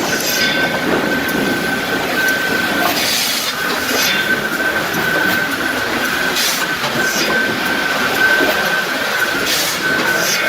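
Sawmill machinery running: a loud, steady mechanical din with a constant high squealing tone that drops out briefly a few times, and sharp clanks now and then.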